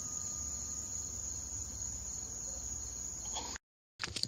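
Crickets chirring in a steady, continuous high trill, with a faint thin held tone fading away in the first half-second. The sound cuts out abruptly over half a second before the end, and a few sharp clicks follow.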